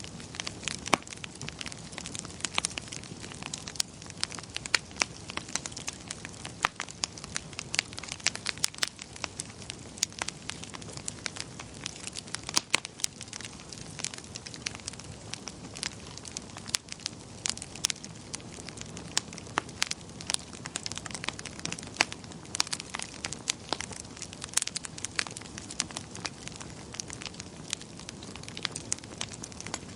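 Wood fire burning in a fireplace, crackling and popping: many irregular sharp snaps over a steady low hiss of flame.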